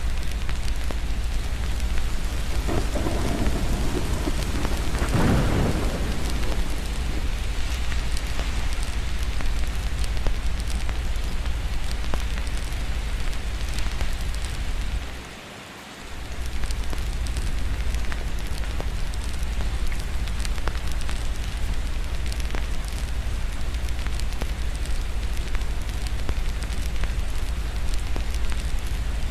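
Steady heavy rain with a low rumble of thunder that swells and rolls a few seconds in. The whole sound briefly drops away for about a second near the middle, then returns.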